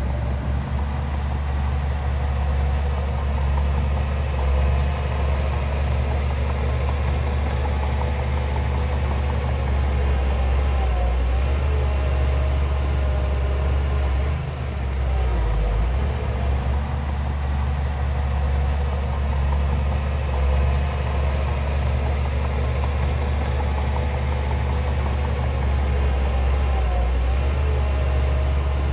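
Heavy earthmoving machinery's diesel engine running steadily with a deep low rumble.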